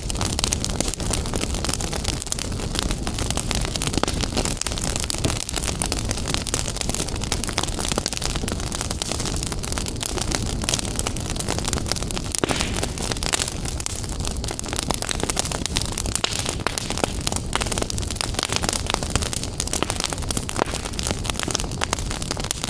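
Fire in a fireplace crackling steadily, with many small snaps over a low rumble of burning.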